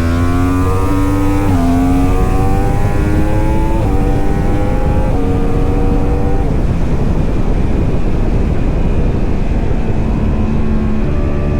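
Racing superbike engine accelerating hard through the gears: its note climbs and drops back at each upshift, about three times, then fades into a loud rushing noise.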